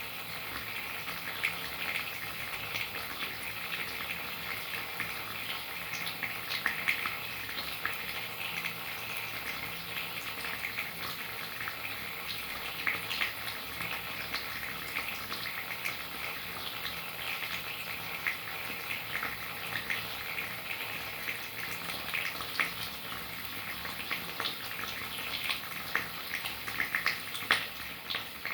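Steady rain: a continuous hiss of falling water with many small, scattered drop hits.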